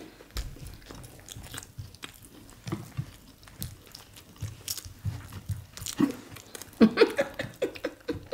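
Close-miked mouth sounds of two people eating ewa agoyin beans, fried plantain and soft bread: wet chewing and biting with small smacking clicks. It gets busier and louder from about six seconds in.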